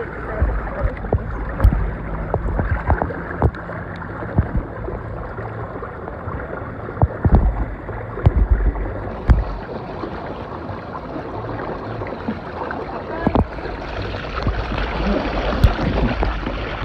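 Outdoor water-park ambience: a steady wash of running water, with the microphone buffeted by wind and scattered small knocks and bumps.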